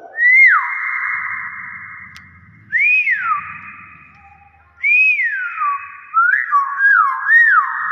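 Hill myna whistling: a series of loud rising-and-falling whistled notes, each trailing off in echo, with three quicker notes near the end.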